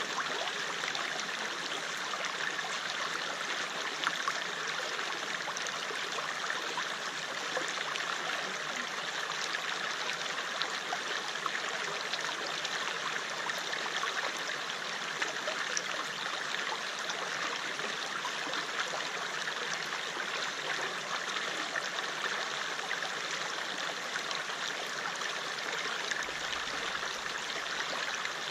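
River water flowing and babbling over rocks, a steady rushing with small trickling splashes.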